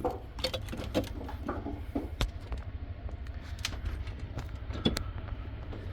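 Scattered light knocks and clicks over a steady low rumble, from someone clambering through an attic and handling ductwork. The sharpest knocks come about two, three and a half and five seconds in.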